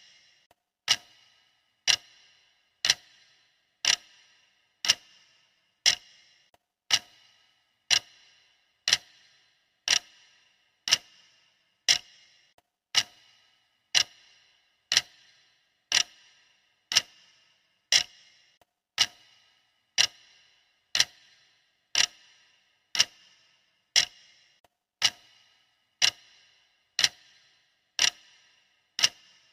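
Timer ticking like a clock, one sharp tick each second, each with a short ring, perfectly even.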